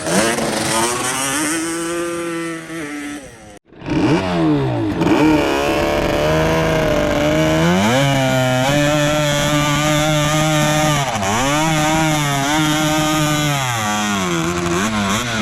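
Quad bike's Yamaha RX100 two-stroke single-cylinder engine being revved up and down in repeated blips, settling between revs, with a sudden brief cut-out about three and a half seconds in.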